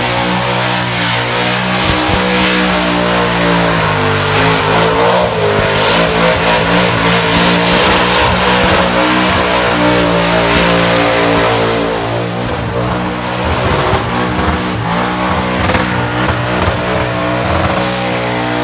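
Burnout car's engine held at high revs, its pitch dipping briefly about four seconds in and climbing back, over the hiss of rear tyres spinning in smoke.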